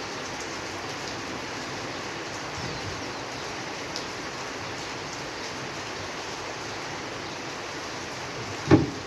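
Steady rain falling, with one short, loud low thud near the end.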